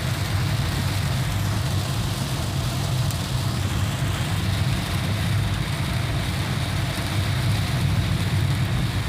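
Heavy rain falling, a loud, steady rush with a deep rumble underneath that never lets up.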